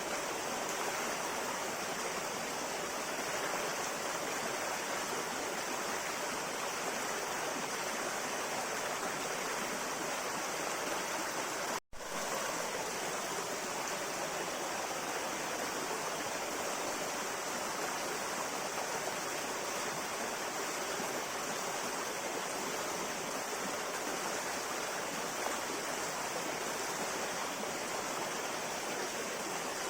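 A river flowing over rocks, a steady, even rushing of water. It cuts out for an instant about twelve seconds in, then resumes unchanged.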